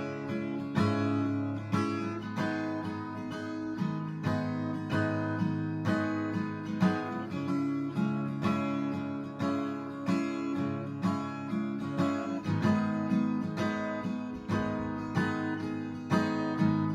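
Acoustic guitar strumming chords in an even rhythm, about two strokes a second, as the introduction to a song.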